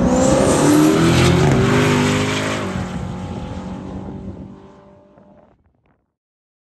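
Twin-turbo Ford Coyote V8 in a race-prepared XB Falcon accelerating hard. The engine pitch climbs for about a second and a half, then drops and fades away over the next few seconds until it is gone.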